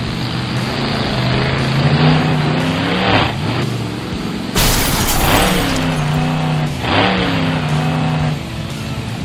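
Monster truck engine revving hard, its pitch climbing in several surges, with a sudden loud burst of noise about halfway through.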